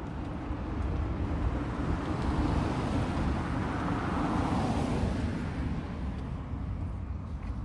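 A car driving past, its engine and tyre noise swelling as it approaches and fading away over a few seconds.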